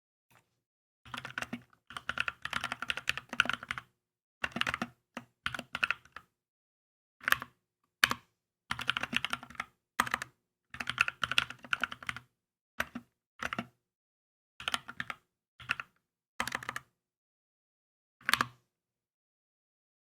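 Typing on a Keychron K2 mechanical keyboard: bursts of rapid keystrokes with short pauses between them, the longest run about a second in, then shorter runs and single taps, the last burst a little before the end.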